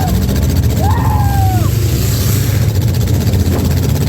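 Loud, steady rumble of demolition derby car engines running, with a short rising-and-falling call about a second in.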